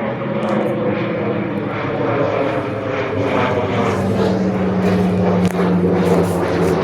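A steady engine drone, its low hum holding a couple of tones, growing gradually louder.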